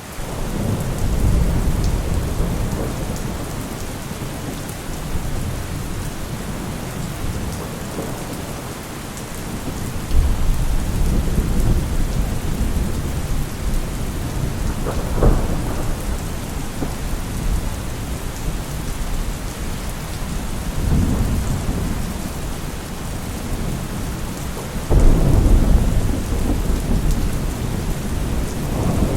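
Heavy rain falling steadily, with thunder rumbling again and again over it; the loudest rolls come about ten seconds in and again near the end, with a sharper crack around the middle.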